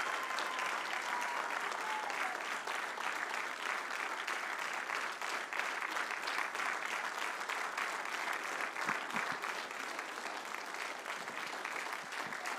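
Church congregation applauding steadily, with a few faint voices calling out, easing slightly near the end.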